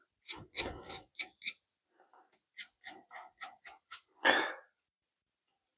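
A quick, irregular series of short, sharp scraping clicks from metal hand-tool work, about two to four a second, with one longer, louder scrape about four seconds in.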